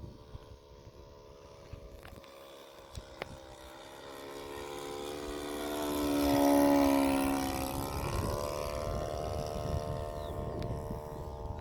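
Radio-controlled model Cessna AgWagon 188's engine and propeller running as the plane flies past. It grows louder to a peak a little past the middle, then drops slightly in pitch as it moves away.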